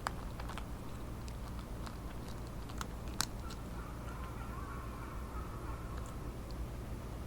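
A few sharp crunches from a cat eating dry kibble, spaced out between pauses, over a steady low hum. A faint drawn-out wavering call sounds in the background around the middle.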